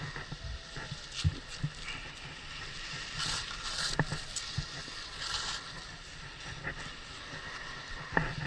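Skis sliding on snow, with two short scraping hisses in the middle, among scattered clicks and knocks of ski gear.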